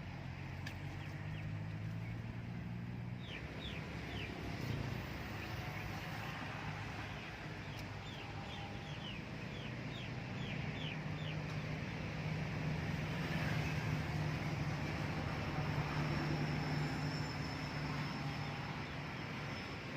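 A bird calling in a run of short, high, falling chirps, over a steady low engine hum.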